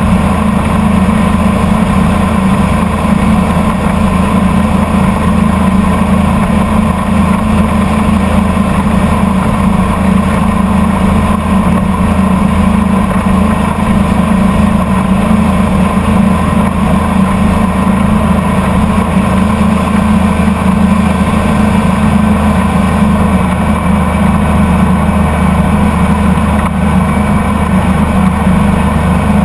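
Boat engine running steadily under way, loud and even, with no change in pitch or speed.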